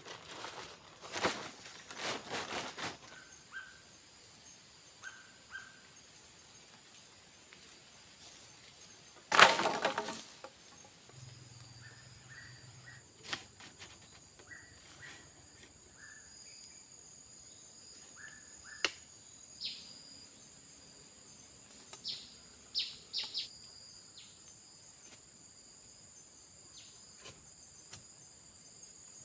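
Bursts of rustling and a few sharp knocks, the loudest rustle about nine seconds in. A steady high-pitched insect drone sets in and holds underneath, with faint short chirps.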